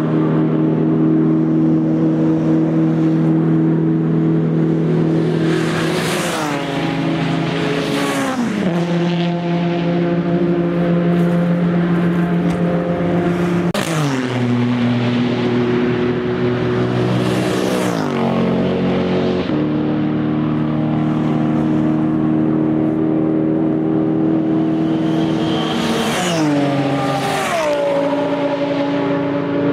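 Race cars with loud, unsilenced exhausts passing one after another at full throttle, a steady engine drone from the field throughout. Each car's pitch drops sharply as it goes by, several times.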